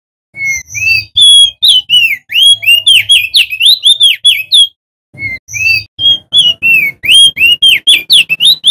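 Male opior jambul (crested darkeye) singing a fast, loud song of short, sweeping whistled notes, about four or five a second, with one brief pause about five seconds in before it starts up again.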